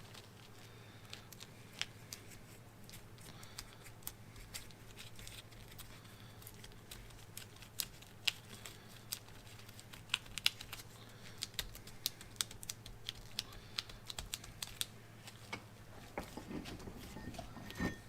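Small, irregular, light clicks and scrapes of a hand tool working chemical metal filler into the damaged grooves of a tractor's hydraulic cylinder, over a faint steady low hum.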